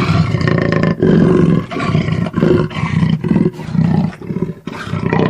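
A big cat roaring: a run of deep roars and grunts that get shorter and quicker as it goes on.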